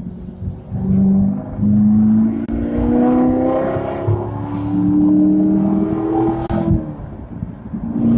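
Car engine accelerating hard, its pitch climbing steadily for several seconds, then falling off about seven seconds in as it shifts up a gear.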